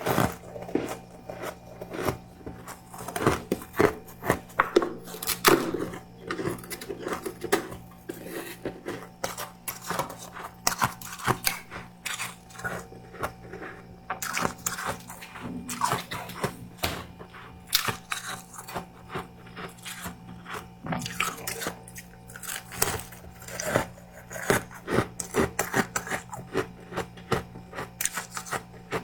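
Powdery freezer frost being bitten and chewed: a dense, continuous run of crisp crunches.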